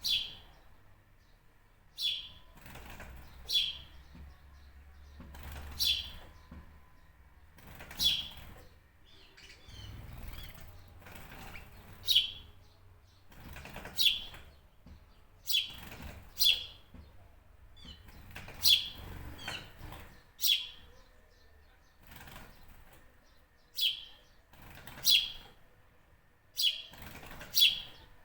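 A bird giving short, sharp chirps, each falling in pitch, repeated about once every one to two seconds.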